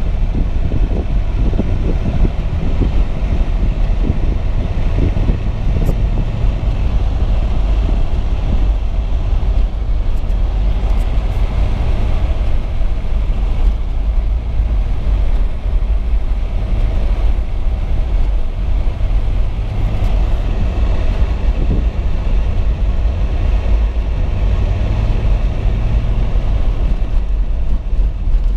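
Steady low rumble of a car driving on snow-covered roads, heard from inside the cabin: engine and tyre noise with no break.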